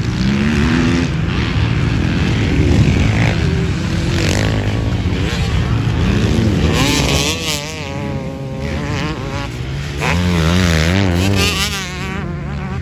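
Dirt bike engines racing on a motocross track, revving up and down as they run through the gears.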